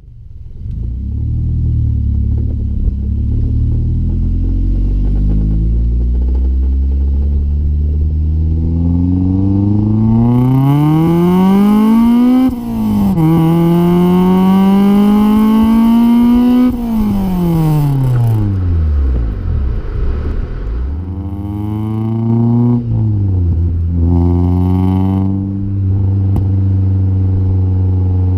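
Acura Integra GSR four-cylinder engine through a Vibrant aftermarket exhaust: idling, then revving up for several seconds with a brief drop in revs about twelve seconds in before climbing again. It falls back to idle, gives two short blips of the throttle and settles at idle.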